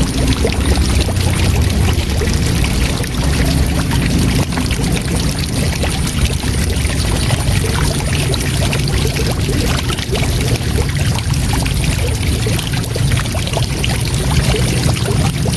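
Waterfall: a steady, loud rush of falling water, deep and even.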